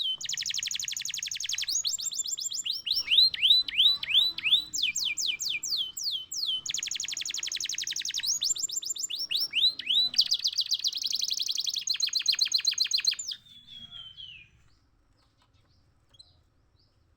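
Domestic canary singing: fast high trills and rolling repeated phrases that switch every second or two, mixed with swooping down-slurred notes, stopping suddenly about 13 seconds in.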